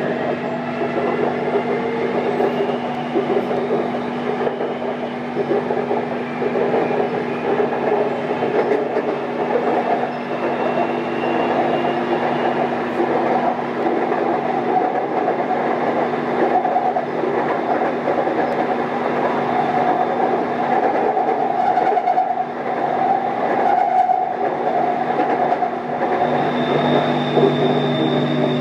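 Electric BTS Skytrain car running on the elevated track, heard inside the cabin: a steady rumble and hum, with a faint electric motor whine rising in pitch over the first few seconds. A high steady tone and a stronger low hum come in near the end.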